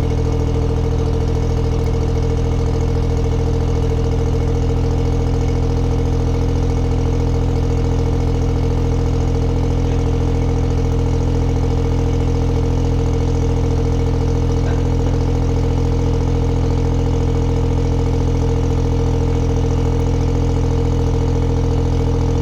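Autozam AZ-1's small turbocharged three-cylinder engine idling steadily just after a cold start. It runs through a straight downpipe with no catalytic converter, heard from about five feet away. The idle is even and unchanging, with no revving.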